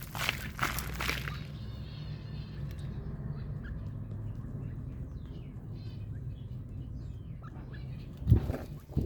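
Birds chirping faintly, in short high calls, over a steady low rumble. A few rustling bursts sound in the first second, and a loud thump comes near the end.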